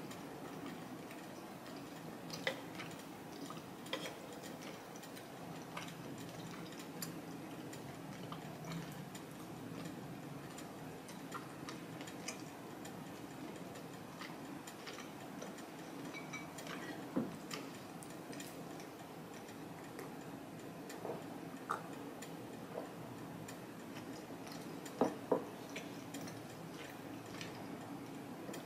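Close-miked chewing of a mouthful of beef steak with the mouth closed: soft, irregular wet clicks and smacks over a steady low hum, with a few sharper clicks here and there, two close together near the end.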